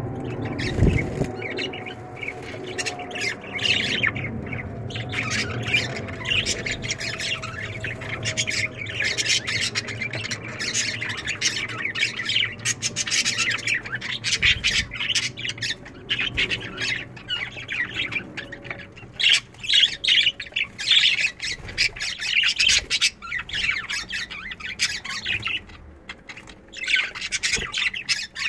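A flock of budgerigars chattering and squawking in dense, rapid chirps throughout, over a low steady background noise that fades out about halfway through.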